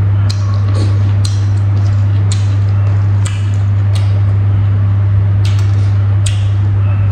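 A loud steady low hum throughout, over irregular wet clicks and smacks of a man chewing rice and boiled pork and eating with his hand, picked up close on a clip-on microphone.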